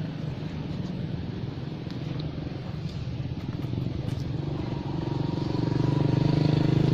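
A motor vehicle engine running, its hum growing louder from about halfway through as it comes closer.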